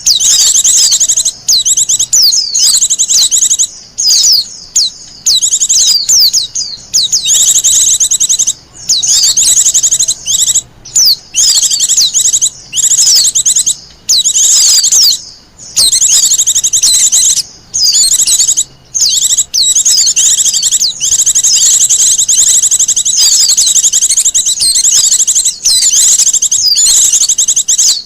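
Wild white-eye (pleci) singing a fast, high-pitched twittering song in long phrases, broken by brief pauses.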